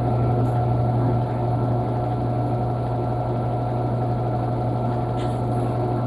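Panasonic washing machine running with a steady low motor hum and a few faint ticks.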